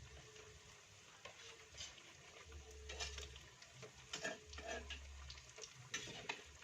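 Tempeh frying in hot oil with a faint sizzle, and a few clicks and scrapes of a utensil as the pieces are lifted out of the pan.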